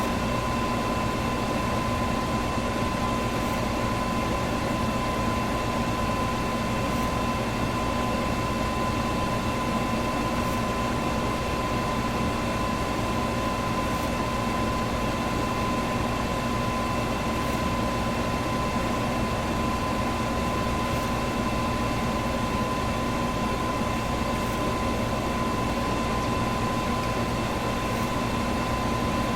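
Electric fan running steadily: an even rush of air with a constant motor hum and a thin whine on top, and a faint high tick about every three and a half seconds.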